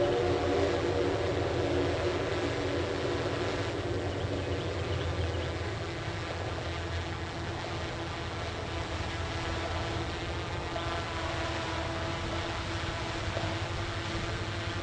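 Northbound Metro-North passenger train with a P32AC-DM diesel locomotive passing, with a continuous rumble of wheels on rail and a steady engine drone whose pitch shifts a couple of times.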